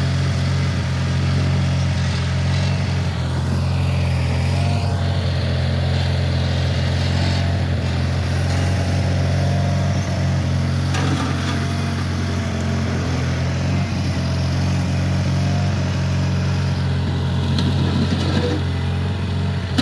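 John Deere 420 garden tractor's twin-cylinder engine running steadily under throttle, its pitch and loudness holding even throughout.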